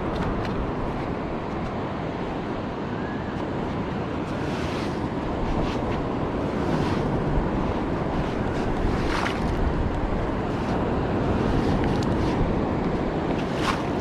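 Steady rushing of ocean surf mixed with wind buffeting the microphone, with a few brief sharp sounds about five, nine and fourteen seconds in.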